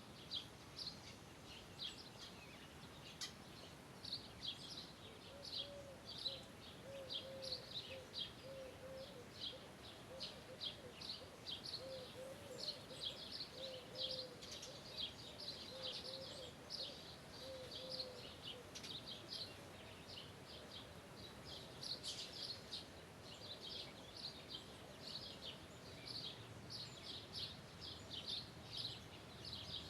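Birds chirping continuously, many short high notes overlapping. From about five seconds in until about eighteen seconds a lower, short call repeats steadily underneath, then stops, returning briefly at the very end.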